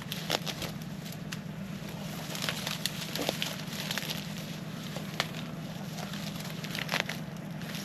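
Scattered clicks, knocks and rustles of anchor rope and gear being handled, at irregular times over a steady low hum.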